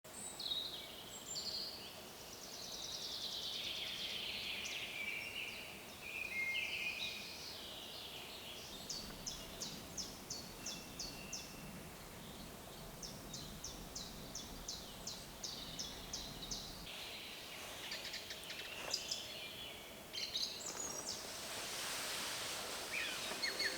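Wild birds singing, several calls and trills, with runs of short quick repeated notes through the middle, over a faint steady background noise that swells near the end.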